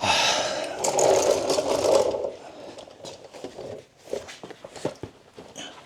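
Skid plate being worked loose and pulled out from under the truck: a loud rattling scrape for about two seconds, then a few light knocks and clatters.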